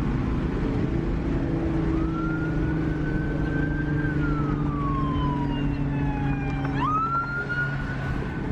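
Police car siren wailing: a slow rise, a long fall and then a quick rise about seven seconds in. Under it, a car engine runs with a steady drone.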